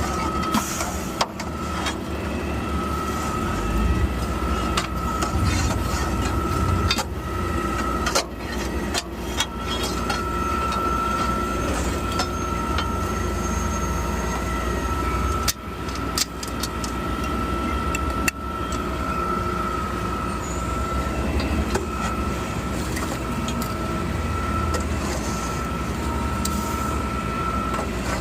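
Mack LR Electric garbage truck running during a clean-out of its body: a steady high whine over a low rumble, with a few sharp knocks and clanks.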